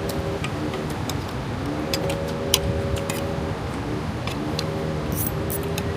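Spoons and utensils clinking irregularly against plates and bowls during a meal, over a steady background hum.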